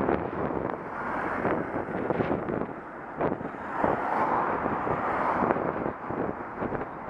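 Wind buffeting the microphone of a Contour action camera on a moving bicycle, a steady rough rush, with a few sharp knocks and rattles from the ride.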